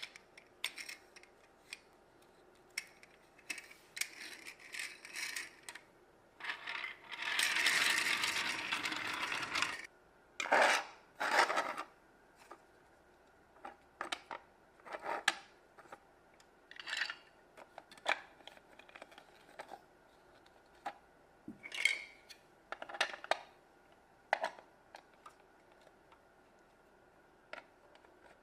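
Plastic Mega Bloks building pieces being handled and clicked together: scattered small clicks and clatters, with a longer rustling stretch about seven to ten seconds in.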